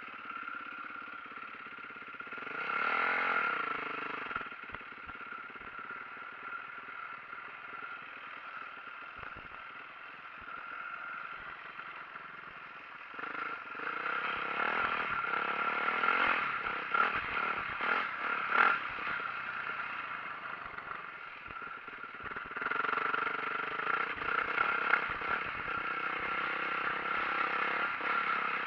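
Yamaha YZ450F four-stroke single-cylinder dirt bike engine being ridden, its revs rising and falling with the throttle, with rattling clatter from the bike over rough ground. It revs hardest about a third of the way in and again in the last part.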